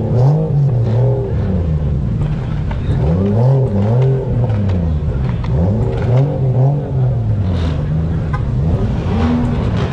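A car engine being revved again and again, its pitch climbing and falling back several times in a row.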